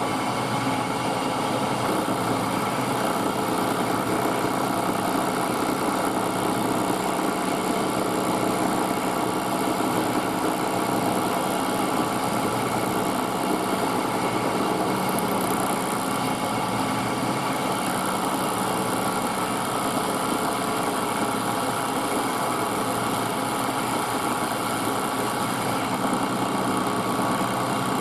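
Milling machine running steadily, its end mill cutting the stepped lip of a brass bracket. The spindle hums with a continuous tone over an even cutting noise.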